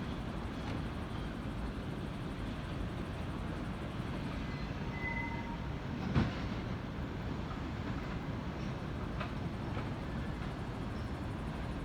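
Train running past with a steady rumble of wheels on rails, and one sharp knock about six seconds in.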